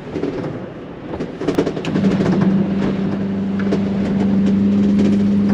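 An RV fresh-water pump starts running about two seconds in with a steady hum, pumping antifreeze through the camper's water lines during winterizing. A few knocks and rattles come before it.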